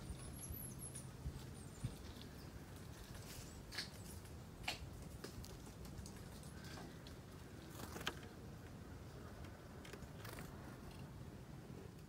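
Faint background with a high, thin bird call about half a second in and about five short, sharp ticks spread a second or more apart.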